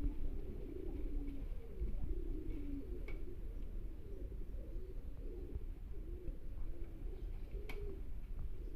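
Several domestic pigeons cooing, overlapping and continuous. Two sharp clicks come about 3 seconds and just under 8 seconds in.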